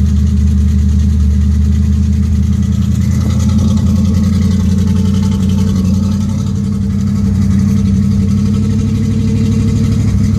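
Carbureted Chevy 305 V8 with a Crane 274H06 camshaft and headers, running steadily seconds after a reluctant cold start. The oil is too thick for the cold, and oil pressure is still climbing.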